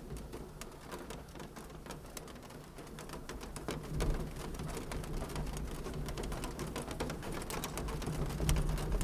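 Wood fire crackling, with many sharp pops over a low rumble.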